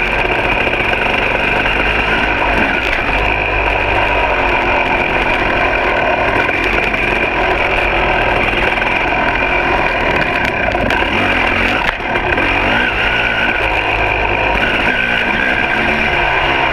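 2006 KTM 300 XC's two-stroke engine running continuously on a trail ride, its pitch rising and falling as the throttle is worked.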